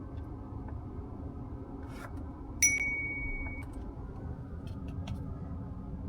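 A single electronic chime from the Mazda CX-5 Homura's cabin, one clear tone held for about a second, comes about two and a half seconds in. A steady low cabin rumble runs under it, and there are a few faint clicks.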